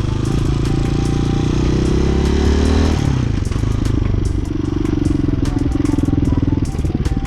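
Hawk 250 dual-sport motorcycle's single-cylinder engine accelerating, its pitch rising for about three seconds, then dropping suddenly as the throttle closes or a gear changes. It then pulls at fairly steady revs and eases off again near the end.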